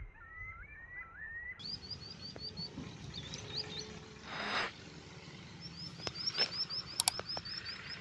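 Small birds chirping: curling whistled notes at first, then quick runs of short high chirps at about five a second. A brief rushing noise comes about halfway, and a few sharp clicks follow near the end.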